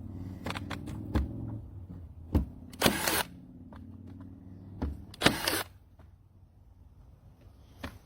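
LINKNAL ST18 cordless 14-gauge nailer in use: a steady hum with sharp mechanical snaps and two louder, longer bursts as it drives fasteners. The hum stops about six seconds in.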